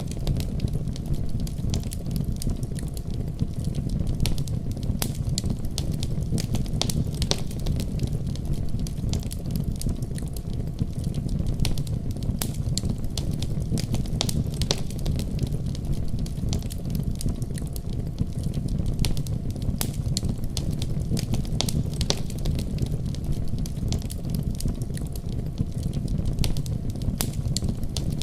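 Wood fire crackling in a fireplace, with frequent irregular sharp pops, over a steady deep rumble of storm wind.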